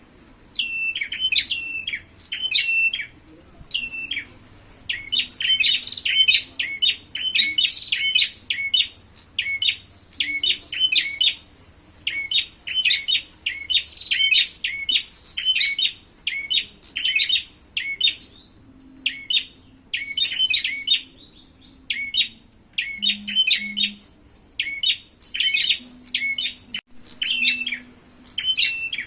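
Prenjak birds giving their agitated 'fighting' call: sharp chirps repeated several times a second in fast runs, with short breaks between the runs.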